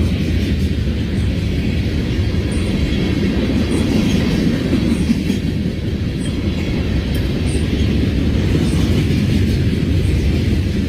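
CSX freight train rolling past with a steady low rumble of wheels and cars on the rails.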